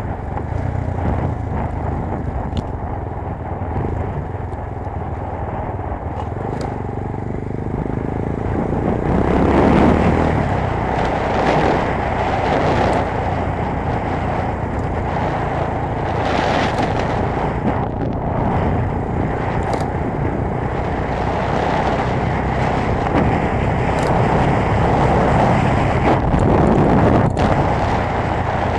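GX-R 250S motorcycle being ridden flat out on a top-speed run: the engine runs hard under wind rush, swelling louder about a third of the way in.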